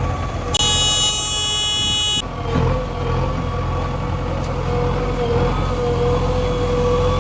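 Heavy machine engine running steadily. A brief high-pitched tonal sound starts about half a second in and cuts off abruptly after about a second and a half.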